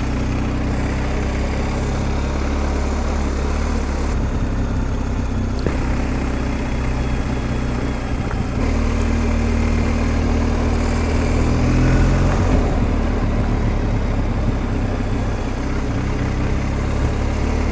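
BMW R 1250 GS Adventure's boxer-twin engine running at low speed on the move, with wind and road noise. The engine note shifts about four seconds in and again about eight and a half seconds in.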